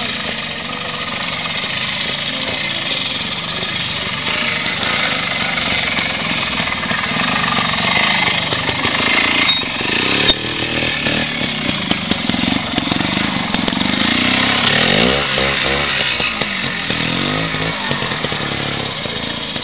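Vintage trials motorcycle engine running with a fast, pulsing beat, with two sharp knocks about halfway. Its revs rise and fall several times in the last few seconds.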